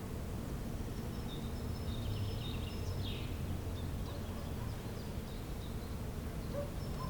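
Songbirds chirping and whistling in short high notes, one falling call about three seconds in, over a steady low background rumble.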